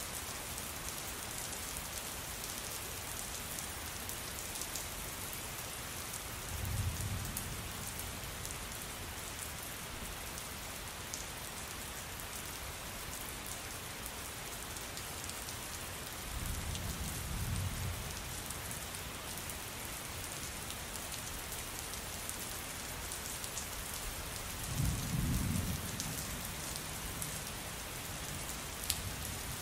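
Steady heavy rain falling on a surface, with distinct drops ticking, and low rolls of thunder three times: about a quarter of the way in, past halfway, and the strongest near the end.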